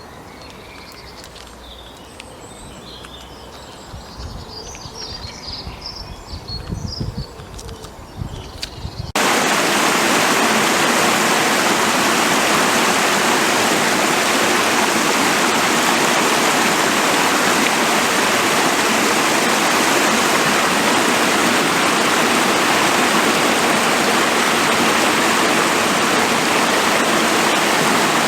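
Small birds chirping and singing over a quiet background, with a few low rumbles. About nine seconds in, this cuts abruptly to the loud, steady rush of a fast-flowing forest stream.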